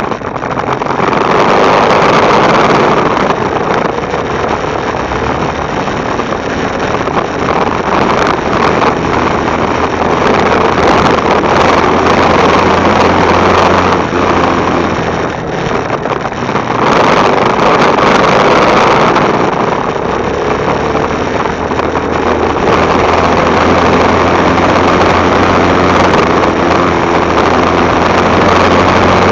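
Motorcycle engine running at a steady pitch while riding, with wind buffeting the microphone in waves that rise and fall every few seconds.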